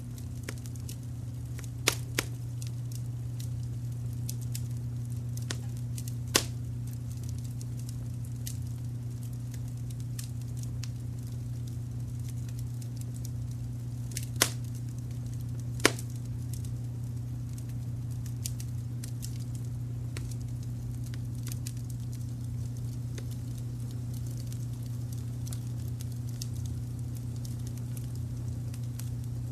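Wood fire crackling, with faint ticks throughout and a handful of louder pops, two of them close together about two seconds in, over a steady, smooth low brown-noise rumble.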